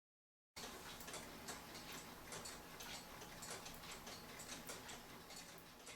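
The repaired E. Schmeckenbecher Nuremberg Church clock's mechanical movement ticking steadily, running. The ticking starts suddenly about half a second in, with a faint low hum beneath it.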